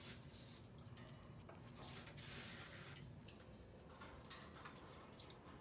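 Near silence: faint room tone with a few soft rustles.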